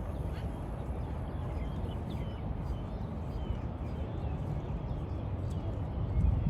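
Outdoor ambience: a steady low rumble with many faint, short bird chirps scattered through it. The rumble grows louder near the end.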